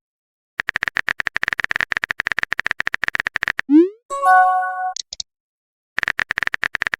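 Looping synthesized electronic music: a run of rapid clicks, a rising sweep about four seconds in, a short chord of steady tones, then a few high chirps, followed by the clicking run starting again near the end.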